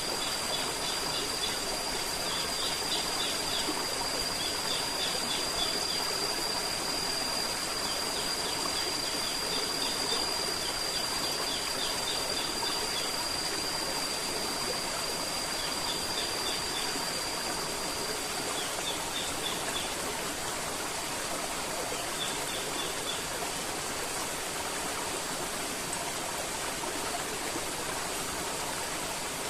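River water flowing steadily. Short runs of quick, high chirps repeat every few seconds over it, and a thin, steady high-pitched tone stops about two-thirds of the way through.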